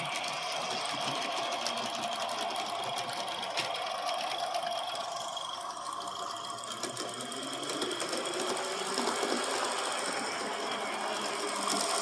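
Aster live-steam three-truck Climax geared model locomotive running, with a rapid, steady chatter of exhaust beats and clattering gearing, on one of its first runs after reassembly.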